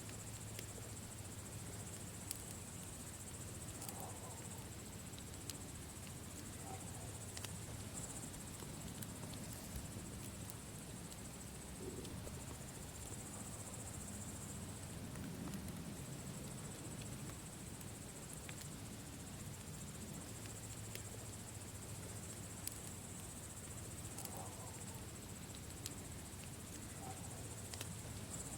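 Campfire crackling, with scattered sharp pops over a low steady rush, and insects chirring in a steady high band.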